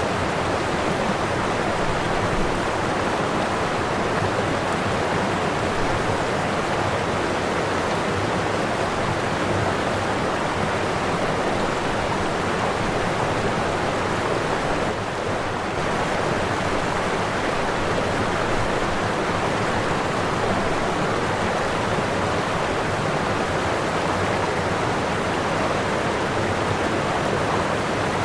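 Waterfall: water falling and rushing steadily, with a brief slight dip in level about halfway through.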